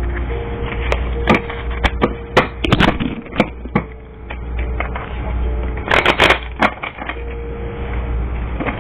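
Tarot cards being shuffled and handled: irregular sharp snaps and taps, with a dense flurry about six seconds in, over a steady low hum.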